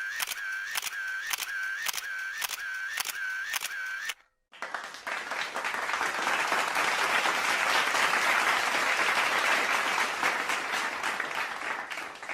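A camera shutter sound effect: rapid repeated shots about twice a second, each a click with a short pitched whine, for about four seconds. After a brief gap, a crowd applauding, swelling and then fading away.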